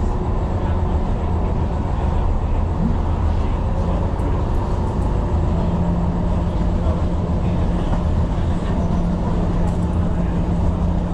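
Tyne and Wear Metro train running along the track, heard from on board: a steady low rumble, joined about halfway through by a steady low hum.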